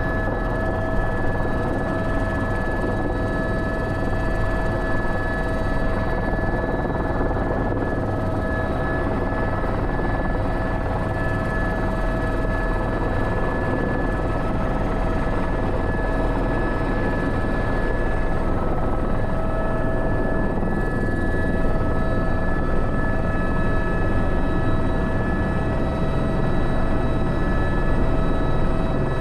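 Airbus H125 helicopter in flight, heard from the cockpit: steady rotor and turboshaft engine noise with a constant whine of several steady tones.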